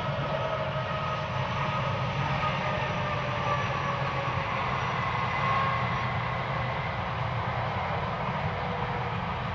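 Long freight train of vans and container wagons rolling past: a steady rumble and rush of steel wheels on the rails, with faint whining tones that slide slowly lower in pitch.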